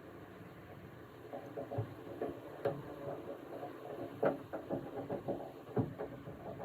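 Irregular knocks and clicks of hard plastic and metal as a pickup's tail light assembly is handled and fastened in place, with a few sharper clicks spread through.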